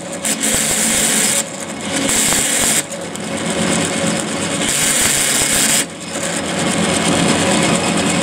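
Old Boxford lathe running with loud gear noise, a harsher high rattle cutting in and out in spells. The fault is a gear lever that bounces up and jams, which the owner puts down to worn, elongated pin holes behind it.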